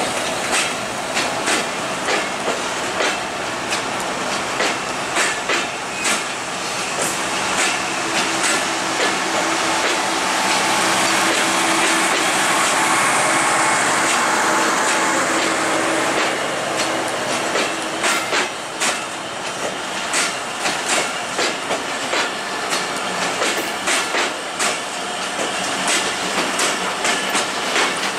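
Bangladesh Railway intercity passenger coaches running through a station without stopping: their wheels click rhythmically over the rail joints, several clicks a second. For several seconds in the middle the clicks give way to a steadier, louder rushing noise with a low hum.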